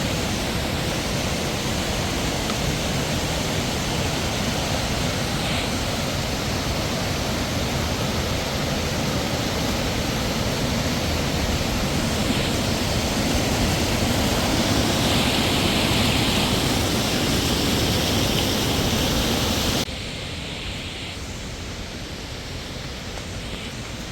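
Steady rushing of a waterfall. About twenty seconds in, it drops suddenly to a quieter, duller rush.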